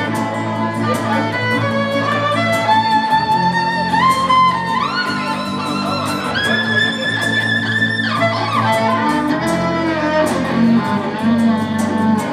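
Live instrumental ending of a song: a violin plays a melody that climbs in steps to a long high held note about six to eight seconds in, then falls away, over steady guitar chords.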